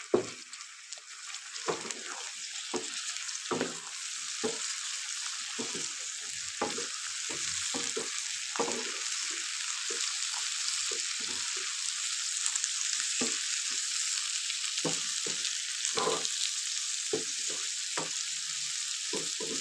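Tomatoes, green chillies and onions sizzling in hot ghee in a frying pan. The sizzle builds over the first few seconds, and a wooden spatula stirring the pan makes irregular scrapes and knocks throughout.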